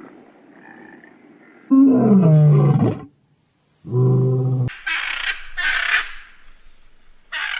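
Deep calls of a large animal: a loud roar falling in pitch, a shorter steady low call, then two hissing breaths and a brief final one.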